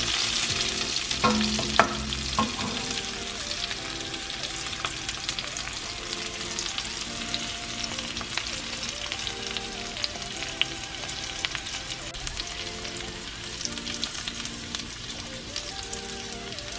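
Dried red chillies, curry leaves and mustard seeds sizzling and crackling in hot sesame oil in a stainless steel kadai, with scattered sharp pops. A wooden spatula knocks and scrapes against the pan in the first couple of seconds. This is the tempering stage of a tomato chutney.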